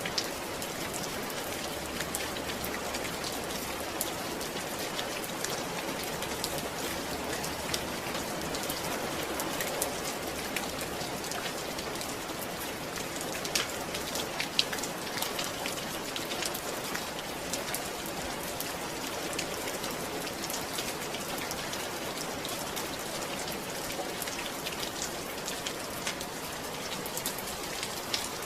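Steady rain falling on a surface, with many distinct drop patters over an even hiss.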